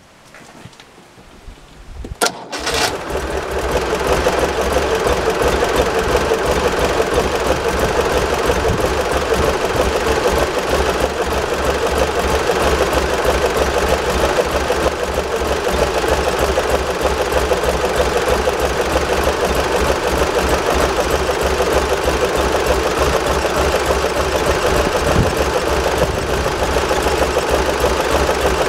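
Tuned 848 cc Panhard air-cooled flat-twin engine starting about two seconds in, then running steadily at an even speed.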